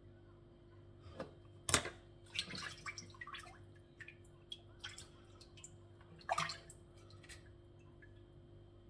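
Water splashing and dripping in a basin as raw chicken feet are handled and washed by hand: a run of short, irregular splashes, the loudest about two seconds in.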